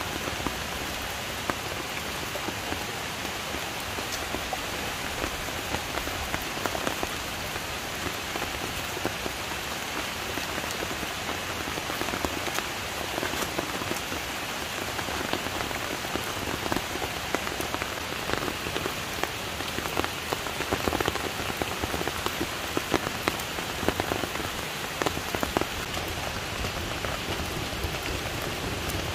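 Steady rain falling and pattering on the ground, with many separate drops ticking throughout.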